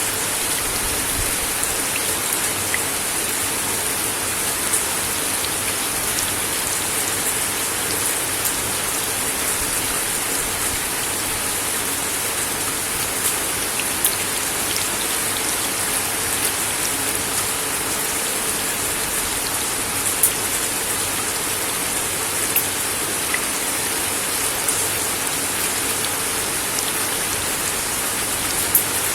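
Steady rain falling on a wooden deck, a dense even hiss with scattered sharper drop taps.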